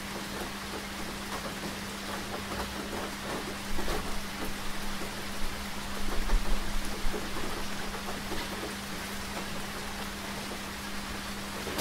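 Rain falling steadily, many separate drops hitting a surface over an even hiss, with a steady low hum underneath. A low rumble swells about four seconds in and fades by about seven seconds.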